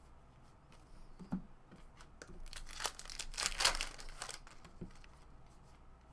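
A trading card pack's wrapper being torn open and crinkled, in about two seconds of crackling around the middle, with a few light clicks of handling before it and one after.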